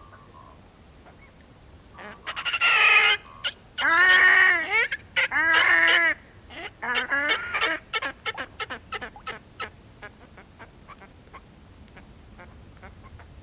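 Whooper swans calling: after about two seconds, a few loud honking calls, then a run of shorter, quicker calls that fade out about ten seconds in.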